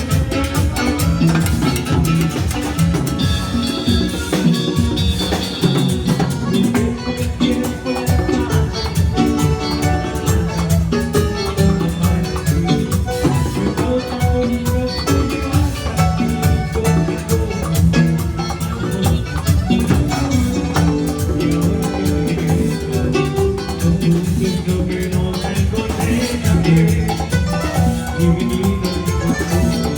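A band playing Latin dance music with drums and percussion, at a steady fast beat.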